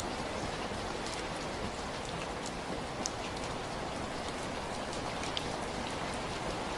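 Steady rain falling, an even hiss with scattered individual drops ticking sharply here and there.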